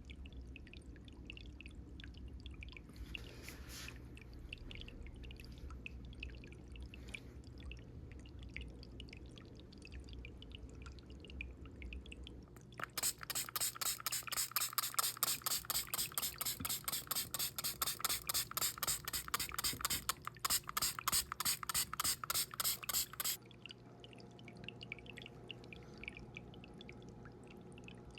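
A hand spray bottle misting the newly planted carpet plants: a rapid run of short hissing sprays, about four a second, for roughly ten seconds in the middle, ending abruptly. Before it, faint scattered ticks and rubbing.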